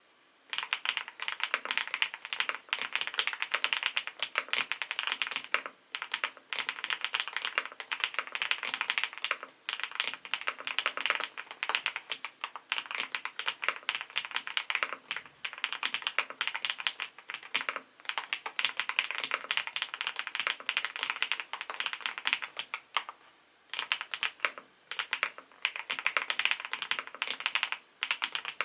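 Fast typing on an SPM PL87W mechanical keyboard with SPM White Mongol linear switches: rapid runs of key clacks broken by short pauses every few seconds.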